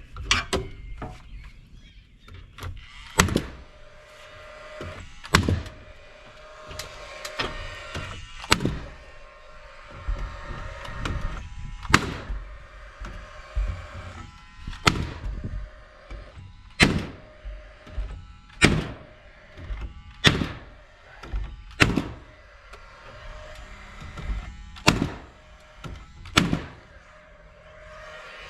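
Nails being driven one at a time into a Georgia-Pacific ForceField sheathing panel, about fifteen sharp strikes a second or two apart, with a faint steady hum underneath.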